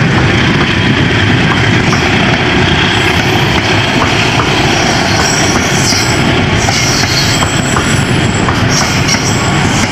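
A train running past close by on the rails: a loud, steady rumble of wheels on track with faint high-pitched wheel squeal coming and going.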